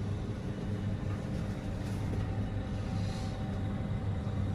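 Steady low hum of a moving vehicle heard from inside, with no sudden events.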